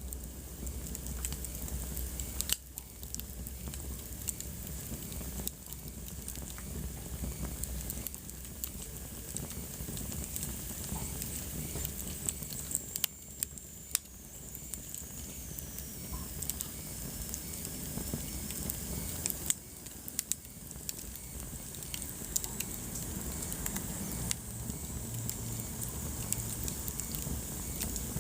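Wood fire burning in a fireplace, crackling with irregular sharp pops over a soft steady hiss and low rumble. A faint high whistle slides down in pitch about halfway through.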